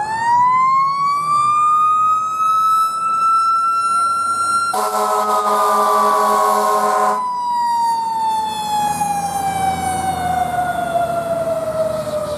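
Fire engine siren winding up to a high wail and then slowly winding down. An air horn blast of about two and a half seconds cuts in near the middle.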